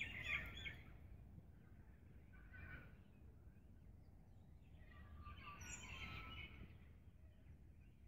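Faint birdsong: scattered chirps and short calls, clearest just after the start and again about five to six seconds in, over a low steady background hum.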